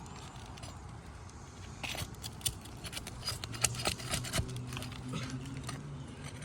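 Asphalt shingles being pried and peeled loose on a roof: a run of short clicks, scrapes and crackles for a couple of seconds around the middle, as the sealed shingle is lifted off the one below.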